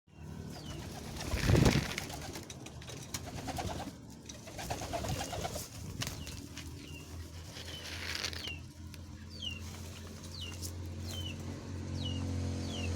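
Domestic pigeons cooing in their loft while feeding, with a brief loud burst about a second and a half in. In the second half, short high chirps repeat about twice a second over a steady low hum.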